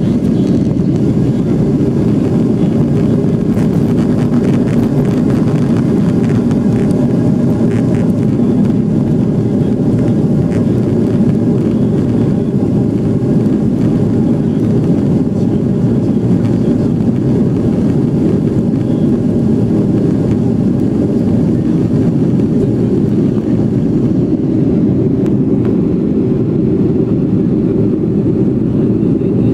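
Boeing 757 jet engines and airflow heard from inside the passenger cabin during takeoff and climb-out, a loud, steady low rumble with a hiss above it that thins slightly near the end.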